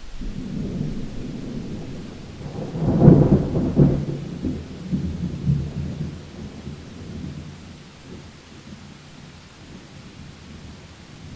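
Thunder rumbling over steady rain: a low roll builds to a loud crackling peak about three seconds in, then rumbles on and fades away over the next few seconds.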